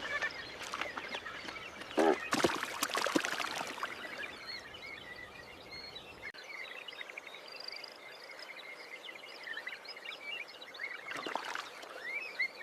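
Outdoor bird ambience: many small birds chirping and twittering. About two seconds in comes a loud cluster of knocks and rustles with a short low call.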